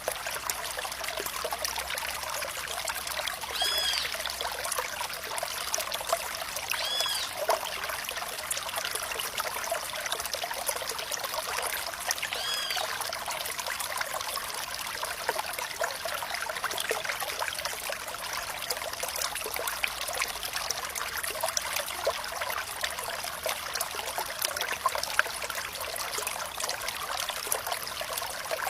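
Flowing water trickling steadily, a bright, splashy sound with little low rumble. Three brief high chirps come through in the first half.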